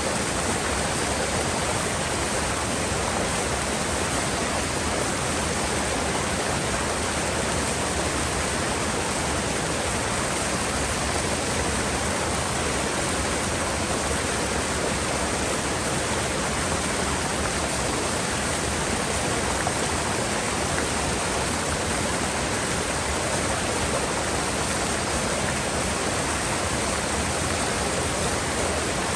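Mountain river water rushing steadily, an even unbroken roar of flowing water with no change in level.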